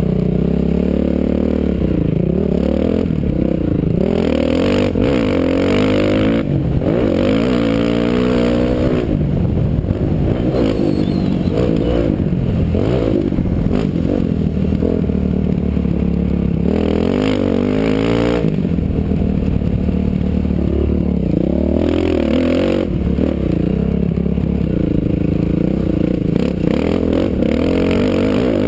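Dirt bike engine heard from a helmet camera while riding motocross, revving up and falling back again and again through gear changes and turns, with scraping and clattering noise.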